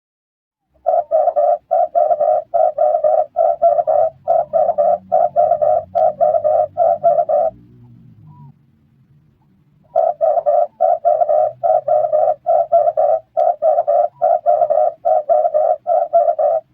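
Red turtle dove calling: a fast, even run of short coos, about five a second, that stops for a couple of seconds midway and then starts again.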